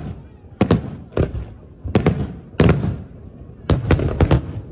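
Aerial fireworks shells bursting in a display: a run of about seven sharp bangs at uneven intervals, some coming in quick pairs, each trailing off in a short echo.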